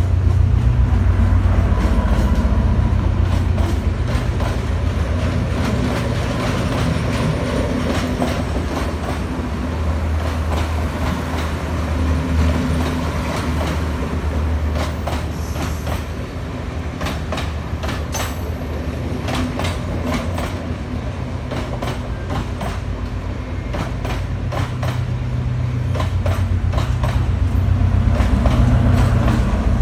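Sri Lanka Railways S10 diesel multiple unit passing close by. The leading power car's diesel engine drones loudly at first, then the coaches' wheels clack over the rail joints, and the engine drone of the rear power car swells again near the end.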